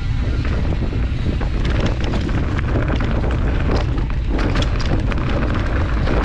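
Wind buffeting the microphone while a mountain bike descends a rough trail at speed: a steady low rumble, with the tyres and frame clattering and ticking rapidly over the ground.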